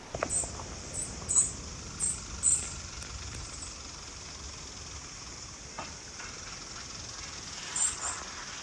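Small birds giving short, very high-pitched chirps: a quick run of five in the first few seconds and a pair near the end, over a steady high hiss of outdoor background.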